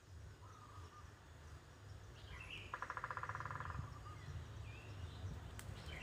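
Small birds chirping faintly: a few short, separate chirps, and a rapid rattling trill lasting about a second near the middle.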